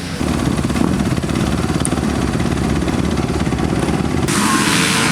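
Dirt bike engine running close by with a rapid, rattling low pulse. About four seconds in, a loud rushing hiss joins it.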